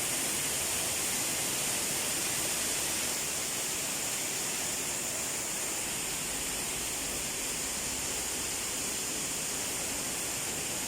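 Steady rush of falling water from a waterfall, an even hiss that holds its level throughout.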